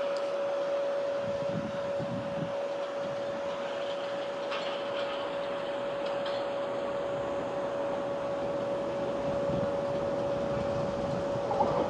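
W7 series Shinkansen train running slowly on its approach into the station, a low rumble growing louder toward the end, under a steady high-pitched hum.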